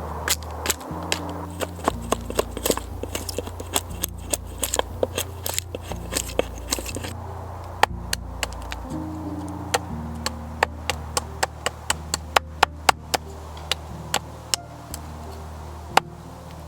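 Wood fire crackling with many sharp, irregular pops, over soft background music of low held notes.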